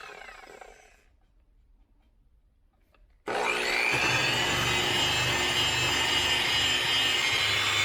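Orbital buffer dying away in the first second, then switched on again about three seconds in and running steadily at a lowered speed, its pad rubbing scratch-remover compound into car paint.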